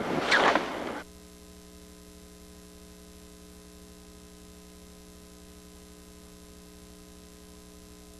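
A brief loud noisy sound that cuts off suddenly about a second in. It gives way to a steady electrical mains hum.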